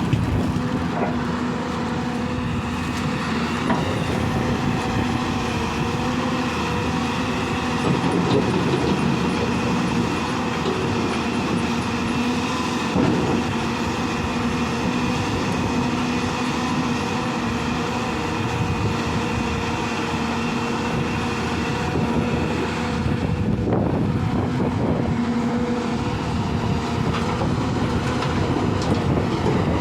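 Heavy diesel engine of a Hyundai excavator running steadily, a constant drone with a steady hum.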